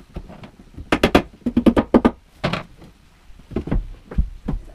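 Clusters of sharp clicks and knocks, hard pieces clattering as bookcase parts are handled and fitted, with a quicker run of them about a second in and more near the end.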